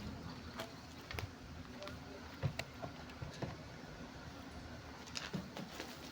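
Scattered light knocks and clicks, about six spread unevenly, of washing gear being handled and put away.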